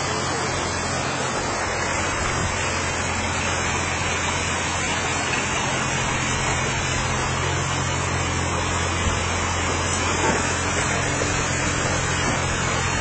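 Heavy construction machine's engine running steadily at a constant low pitch, over a steady rushing noise. The machine is clearing gravel and mud.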